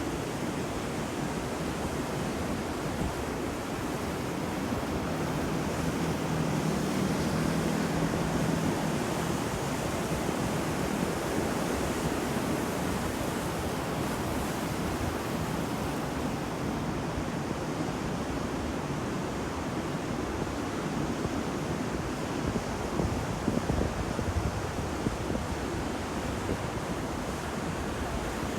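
Sea waves washing on a shore: a continuous surf hiss that swells a little louder about a quarter of the way in, then eases.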